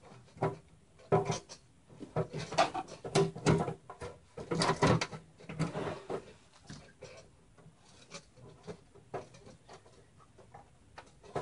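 Irregular clicks, knocks and rustling of computer parts and cables being handled and set in place, busiest in the first half and sparser after.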